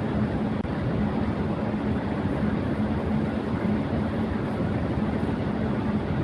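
Electric fan running at high speed: a steady rush of air with a low motor hum underneath, broken by a split-second dropout just after half a second in.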